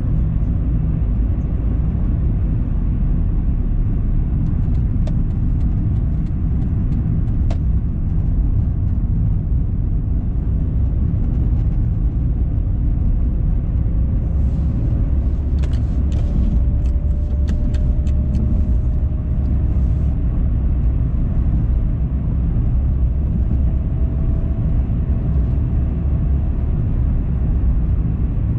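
A car driving, with steady low road and engine rumble. A faint whine slowly rises in pitch through the middle, and short scattered clicks come in two clusters.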